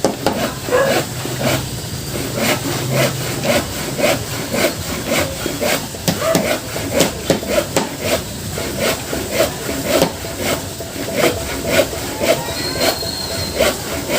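Wood being cut with a hand saw, a long run of even back-and-forth strokes at about three a second.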